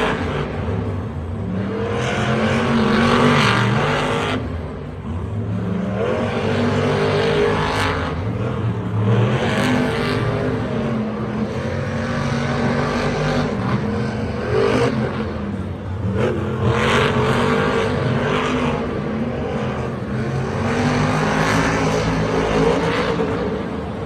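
Monster truck engines revving hard, surging up in pitch and dropping back again and again every few seconds.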